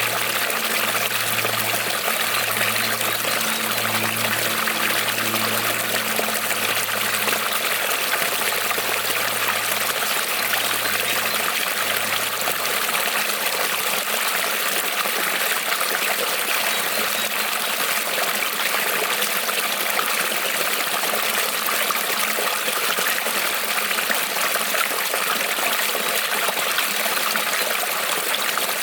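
Small creek rippling and trickling over stones: a steady, even rush of water with no pauses.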